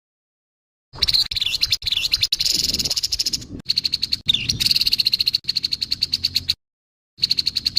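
Grey-headed babbler giving its harsh call: a fast, dry rattling chatter of many quick notes, in bursts with short breaks.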